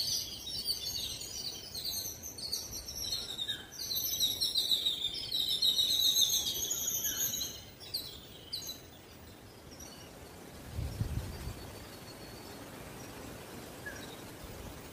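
Several small birds chirping busily in quick, high, repeated notes, which stop about seven or eight seconds in. After that only a faint outdoor background, with a brief low rumble a few seconds later.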